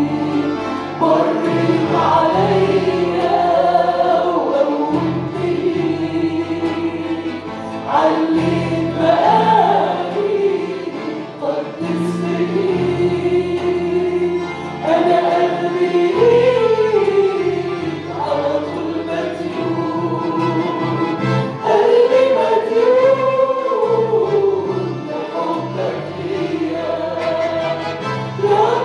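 Christian worship song sung by a group of voices, with long held notes over instrumental backing of low sustained chords that change every couple of seconds.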